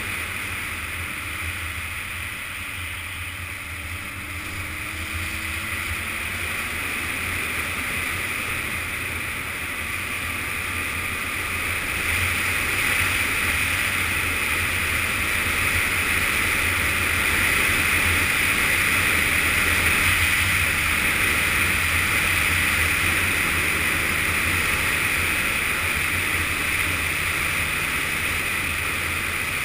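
Yamaha FZS600 Fazer inline-four motorcycle running on the move, mixed with a steady rush of riding wind on the camera microphone. The engine note shifts in pitch in the first few seconds, and the whole sound grows louder about a third of the way in as speed picks up.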